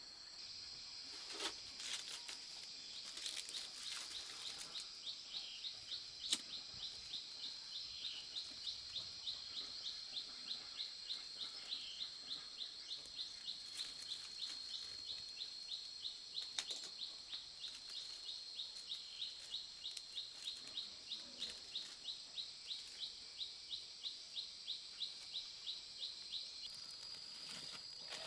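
A high-pitched steady trill with even, rapid chirping over it, about two to three chirps a second, from about three seconds in until near the end, with a few sharp clicks.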